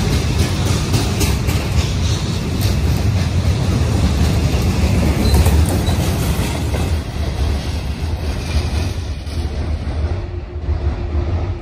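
A train running past on the line, its wheels clicking over the rails, getting quieter in the last few seconds.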